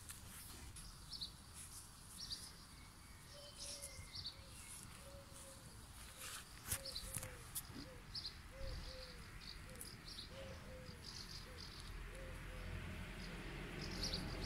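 Faint garden ambience with small birds chirping. Through the middle there is a run of short, soft low notes about twice a second, and a few light clicks.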